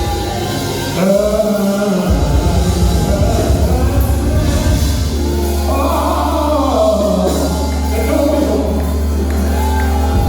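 Gospel music: a voice singing over held bass and keyboard notes.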